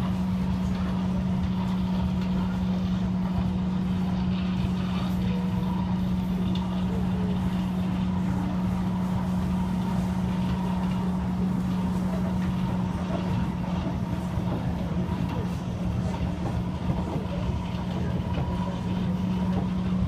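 Kawasaki Heavy Industries C151 metro train running at steady speed, heard from inside the carriage: a constant rumble with a steady low hum throughout.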